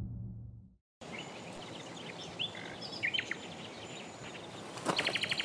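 Birds chirping over a steady outdoor hiss, after a low music chord fades out in the first second. Near the end a rapid ticking starts, about ten ticks a second.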